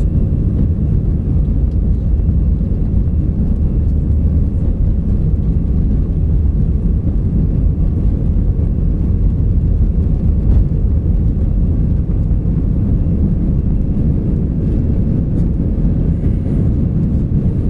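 Cabin noise of an Airbus A319 during takeoff, heard from a window seat: a loud, steady rumble of engine and airflow noise, deep-toned and unchanging.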